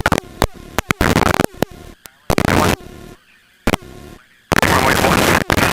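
Helicopter headset radio audio: sharp clicks and short crackling bursts of static that cut in and out, settling into a steady rush of static about four and a half seconds in.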